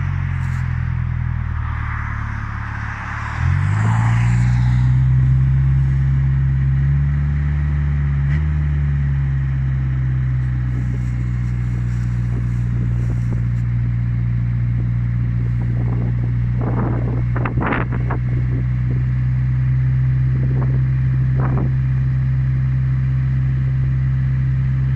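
Isuzu TF54 Campo's 4JA1 four-cylinder direct-injection diesel idling just after a cold start. Its idle steps up about three and a half seconds in and then runs steady, with a few short clicks in the second half.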